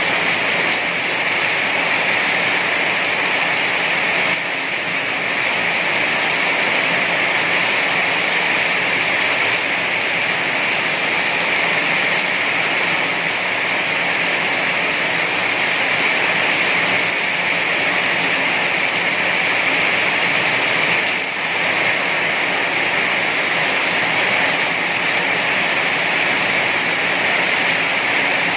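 Heavy rain falling steadily, a dense, even hiss without pause.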